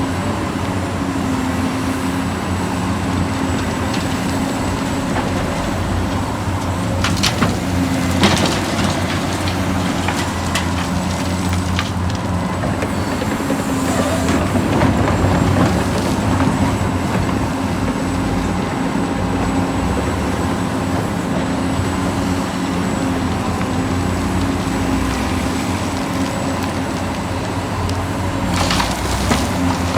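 Motors and hydraulic pump of radio-controlled construction machines running steadily, their hum stepping up and down in pitch as the controls are worked. Short crackling scrapes of dirt and stones come about seven seconds in and again near the end.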